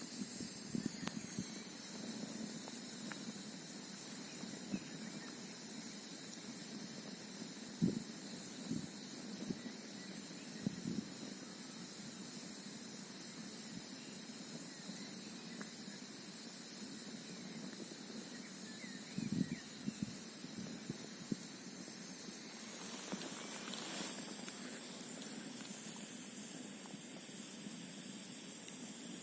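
Campfire burning, wood crackling with scattered sharp pops over a steady hiss.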